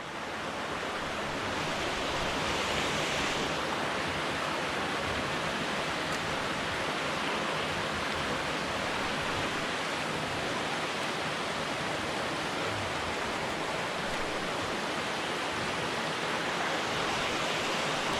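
River water rushing steadily over rocks, an even unbroken hiss.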